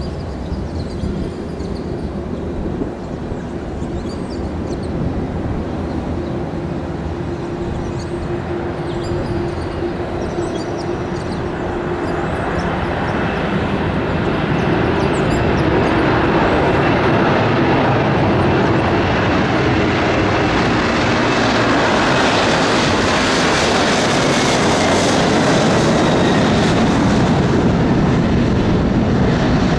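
An airliner's engines grow steadily louder over several seconds, then hold a loud, steady noise with a faint high whine.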